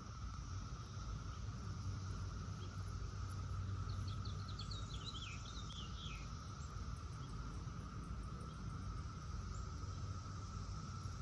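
Periodical cicadas chorusing in the distance: a steady high-pitched hum. A bird sings a quick series of falling chirps about four seconds in, over a low rumble.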